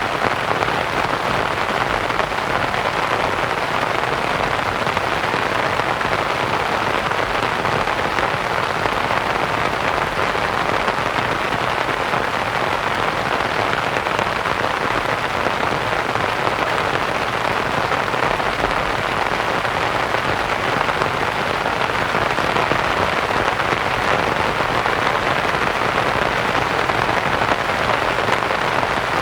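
Steady rain pattering on a canvas tent, mixed with soft white noise, an even hiss with no changes.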